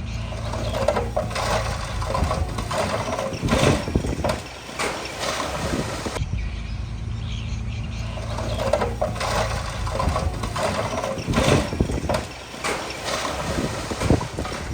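Diesel engine of a small Komatsu D20P crawler bulldozer running at a steady pitch, with irregular knocks and clanks over it.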